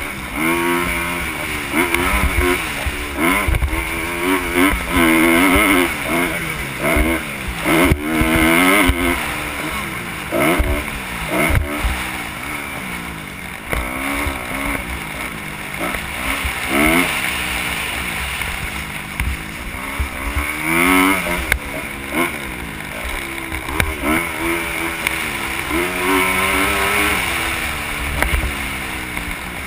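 Kawasaki KX250 motocross bike's engine being raced hard on a dirt track, its pitch climbing and dropping again and again with throttle and gear changes, heard from the rider's helmet camera.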